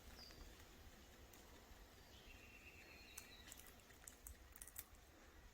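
Near silence with faint bird calls: a brief thin whistle at the start and a longer faint whistled note about two seconds in, with a few soft clicks later.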